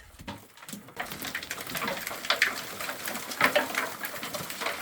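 Irregular scuffs, scrapes and knocks of someone clambering at the mine ladder over rock, getting busier from about a second in.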